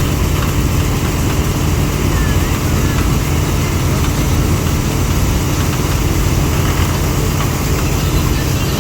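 Engine of a wheat-harvesting machine running steadily, with a constant low hum and machinery noise.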